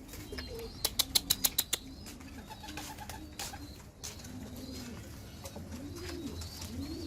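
Domestic pigeons cooing, a few low rising-and-falling coos. About a second in, a quick run of sharp claps is the loudest sound.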